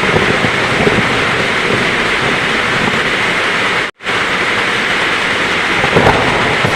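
Steady heavy rain with low thunder rumbling underneath, one rumble swelling near the end. The sound cuts out completely for a split second about four seconds in.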